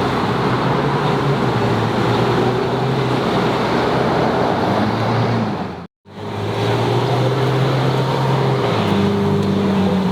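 Ferrari 458's V8 running at low revs with a steady hum. The sound cuts out briefly about six seconds in, and the engine note rises near the end.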